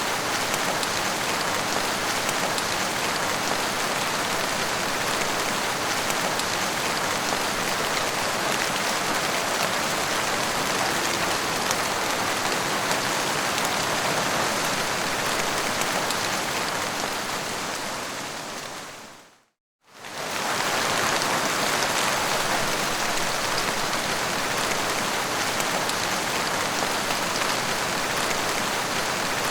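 Steady, dense rain falling on a surface. About two-thirds of the way through it fades out to silence for under a second and then comes back at full strength.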